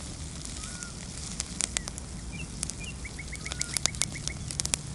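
Campfire of dry deadwood burning and crackling with frequent sharp pops. Small birds call faintly in the background, with a quick run of chirps about three seconds in.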